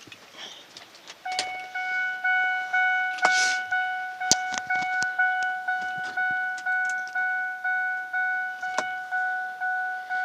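2004 Ford F-150's dashboard warning chime dinging over and over, about twice a second, starting a little over a second in. A few sharp clicks and a brief rustle sound among the first dings.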